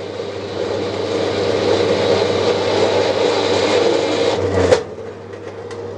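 Draper 30736 horizontal metal bandsaw cutting metal: a loud, steady rasping that grows through the cut. About three-quarters of the way in there is a sharp snap, and the cutting noise stops at once, leaving only the motor's hum: the sign of the blade coming off its guide rollers.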